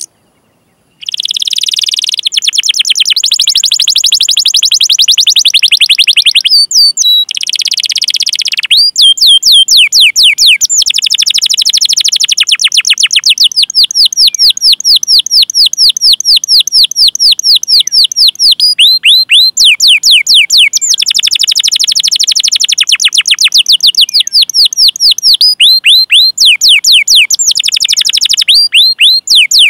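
Domestic canary singing: after about a second of silence, a dense rolling trill, then long runs of rapid repeated falling chirps ('cuit cuit') at about seven a second, broken by brief pauses and short rolls.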